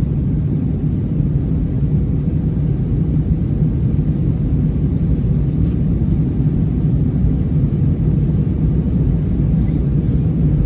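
Steady low cabin rumble of an Airbus A321neo in descent: engine and airflow noise, unchanging throughout.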